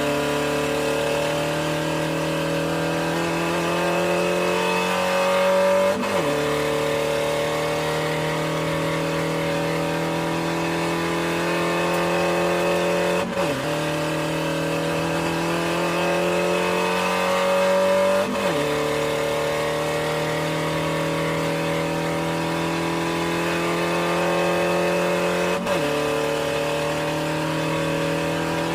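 Race car engine running hard, its pitch climbing slowly and then dropping sharply at each gear change, four times, like a car accelerating up through the gears.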